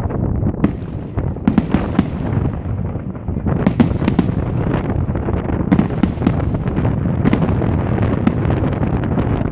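Fireworks going off: many sharp bangs and crackles in quick succession over a steady low noise, with clusters of high crackling about half a second in, around one and a half to two seconds, around four seconds, and again near six and seven seconds.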